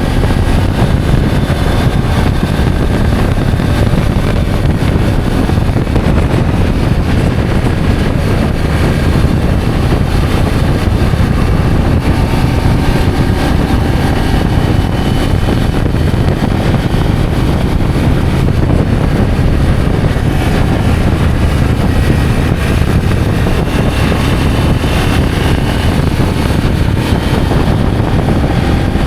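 Motorcycle engine running steadily while riding, under a heavy, even rush of wind noise on the microphone.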